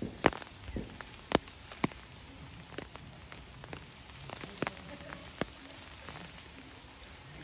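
Rain falling steadily, with a few loud, sharp ticks of drops close by, the loudest within the first two seconds.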